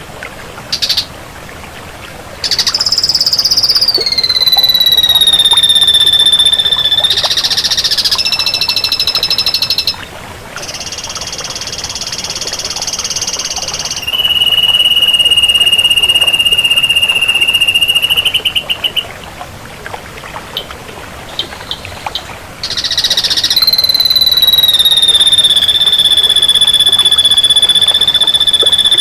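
Ashy drongo singing: long drawn-out whistles that slide down and then hold steady for several seconds, alternating with harsh buzzy notes, and a stuttering broken run of notes around two-thirds of the way in.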